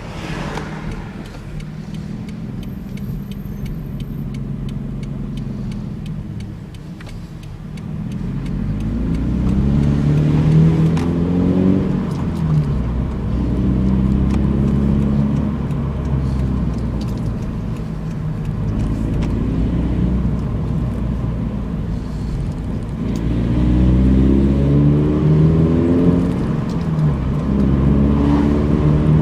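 Car engine through an aftermarket Works cat-back exhaust, heard with the windows open: a steady low drone, then from about eight seconds in it accelerates several times, the pitch climbing and dropping back at each gear change.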